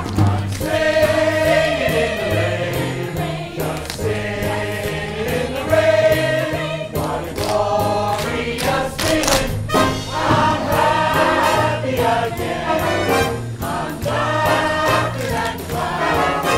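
A chorus of voices singing a show tune over instrumental accompaniment with a steady beat.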